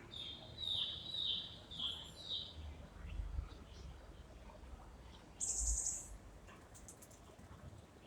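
A small bird chirping: four quick calls, each falling in pitch, in the first two and a half seconds. About five and a half seconds in comes one short, very high, hissy call, and there are a few low thumps.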